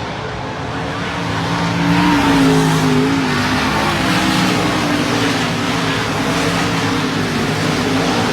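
Dirt-track race cars running on the track, several engines at once over the noise of the pack, getting louder about two seconds in as the cars come past.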